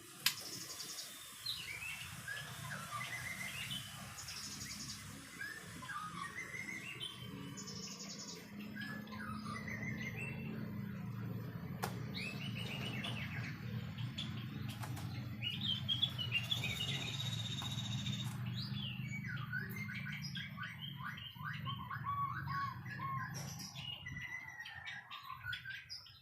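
White-rumped shama singing a varied run of whistled phrases and quick trills, over a steady low hum, with a few sharp clicks.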